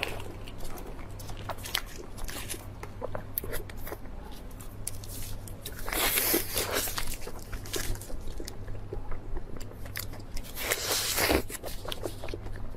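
A person eating close to the microphone: biting and chewing with many small wet clicks, and louder crunching bursts about six seconds in and again near the end.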